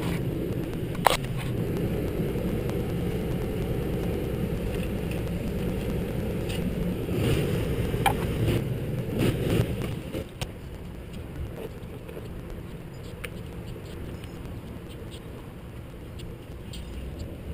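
Low rumble of riding noise picked up by a GoPro on a bicycle ride, with a few sharp clicks; the rumble drops to a quieter level about ten seconds in.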